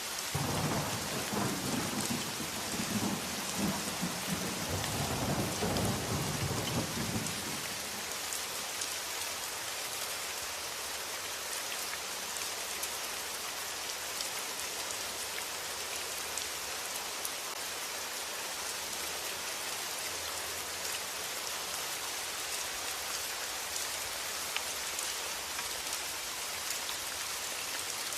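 Steady rain, with a low rumble of thunder through the first seven seconds or so that then dies away, leaving the even hiss of rain.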